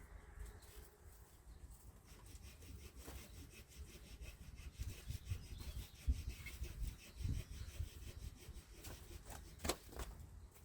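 Faint scraping and rubbing of wooden boards, in quick uneven strokes, with a few sharper knocks near the end.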